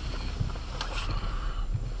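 Cabin noise of an Acura MDX driving on snow: a steady low rumble from the road and tyres, with a couple of brief clicks about a second in.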